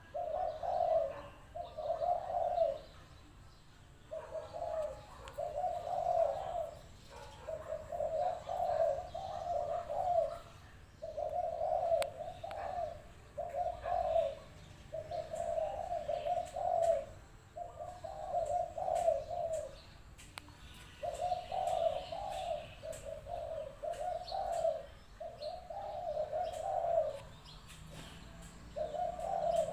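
Spotted dove cooing: phrase after phrase of low coos, each run lasting one to three seconds, with short pauses between.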